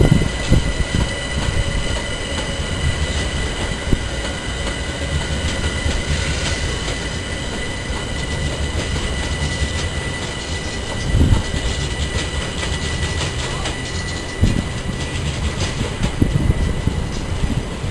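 A train moving through a station: a continuous low rumble with a steady high whine over it, and a couple of heavier thumps about eleven and fourteen seconds in.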